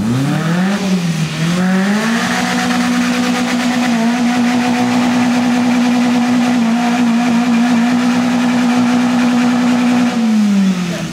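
Open-bodied trials car's engine revved up hard, dipping once and climbing again, then held at high, steady revs for about eight seconds before easing off near the end, as the car struggles up a slippery section.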